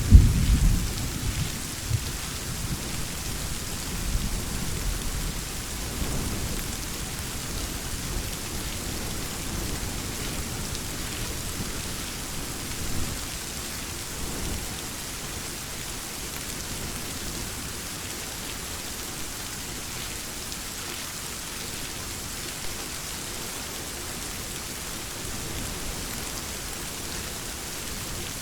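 Steady heavy rain hissing, with a loud roll of thunder dying away over the first couple of seconds. Fainter distant rumbles follow a few seconds in and again about halfway through.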